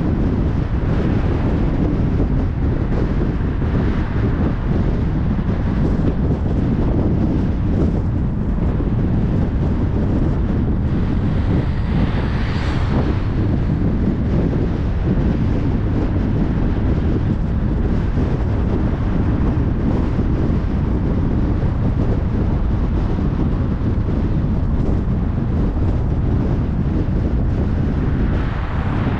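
Steady road noise of a car driving on a motorway: a dense low rumble of tyres and wind. A brief swell of hiss rises and falls about twelve seconds in, and another comes near the end.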